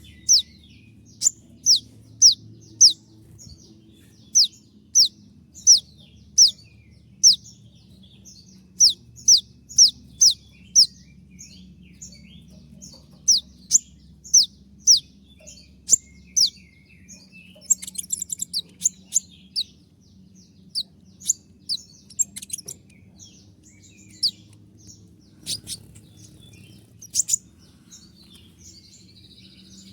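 Kolibri ninja (konin) sunbird singing its 'tembakan' (shooting) song: a run of sharp, high notes that slur downward, about two a second. The notes break into a quicker twittering run past the middle and again a few seconds later.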